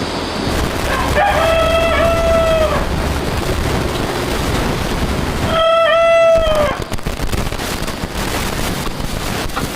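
A rooster crowing twice, each crow a long pitched call of a second or so with a brief catch in the middle.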